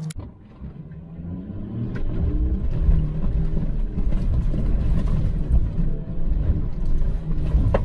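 Volkswagen Touareg's 3.0 V6 TDI turbodiesel engine pulling steadily up a soft sand track, heard from inside the cabin. A low rumble from the tyres and body over the rough sand grows louder about two seconds in.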